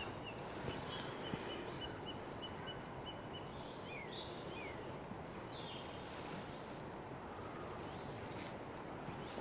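Steady rush of a fast, flooded river, with songbirds singing over it: a quick run of repeated high notes in the first few seconds, then a few brief sliding calls around the middle.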